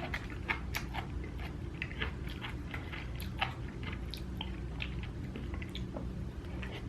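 Close-up chewing: irregular wet mouth clicks and smacks as food is eaten, over a steady low hum.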